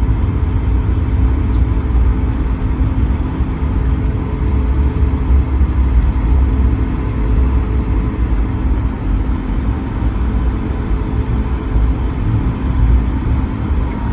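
Steady low rumble and drone inside the cabin of an Airbus A220-300 taxiing, its Pratt & Whitney PW1500G geared turbofans running at low thrust, with a few steady hum tones over the rumble.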